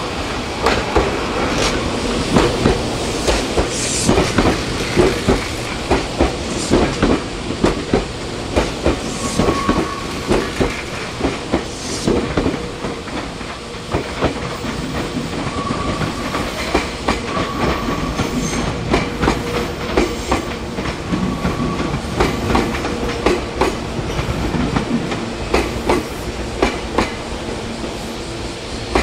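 Electric commuter train running through the station, its wheels clacking over rail joints and points in a long irregular run of clicks over a steady rumble.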